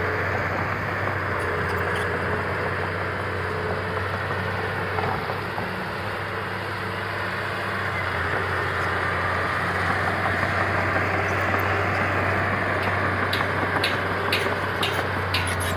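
Heavy diesel earthmoving machinery running steadily, a constant low engine drone. Near the end comes a quick run of sharp metallic clicks and clinks.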